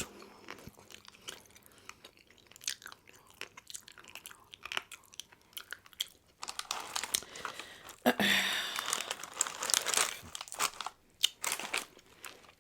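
Close-miked chewing of Domino's pizza: wet mouth clicks and crunchy bites of crust, getting busier and denser in the second half.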